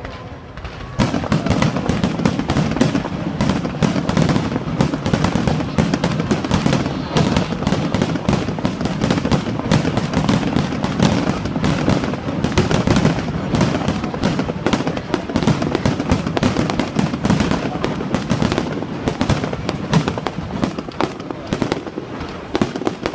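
Fireworks going off without a break: a dense, rapid crackle of many pops and bangs that starts suddenly about a second in.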